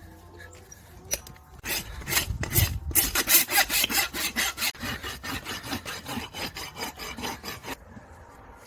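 Farrier's rasp filing a horse's hoof in quick back-and-forth strokes, about four or five a second. The strokes start about two seconds in and stop shortly before the end.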